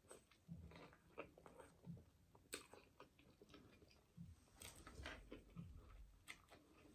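Faint, close-up chewing of a soft sandwich bun dipped in ranch dressing, with irregular small wet mouth clicks and soft thumps.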